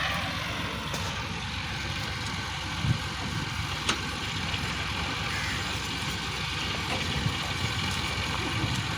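Diesel tractor engines running steadily, with two short sharp knocks about three and four seconds in.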